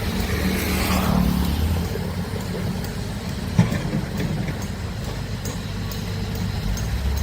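Heavy machinery's diesel engine running steadily, swelling briefly about a second in, with one sharp metallic knock about three and a half seconds in.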